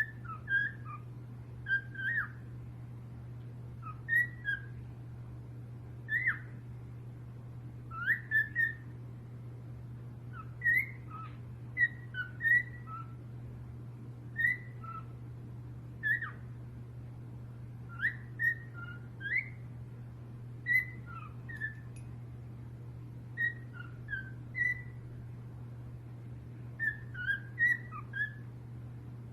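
A parrot giving short, high whistled chirps, singly or in quick clusters every second or two, over a steady low hum.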